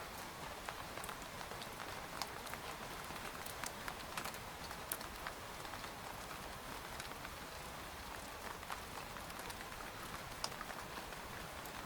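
Rain falling on a tent: a steady hiss of rainfall with irregular sharp taps of single drops hitting the fabric.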